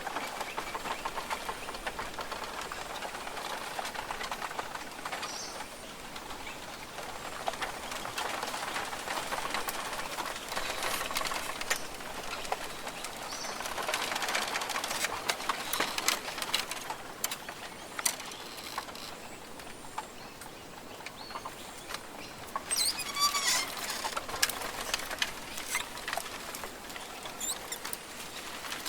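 Rainforest ambience: a steady hiss with many small clicks and crackles, and birds calling, with a burst of chirping calls about three quarters of the way through.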